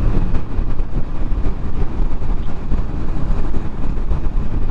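Honda Rebel 500's parallel-twin engine running quietly through its stock muffler while riding, under a steady low rush of wind on the microphone.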